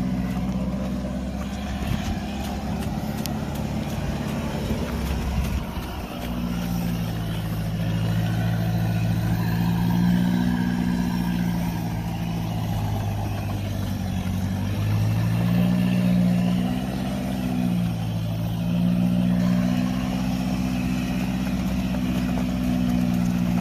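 Mahindra Roxor's 2.5-litre turbodiesel engine under load while towing a heavy tractor, its steady drone rising and falling in pitch several times as the throttle changes.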